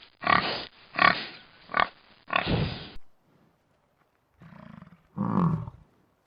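An animal's short, loud calls, about five in quick succession, then after a pause of about a second and a half a single lower call.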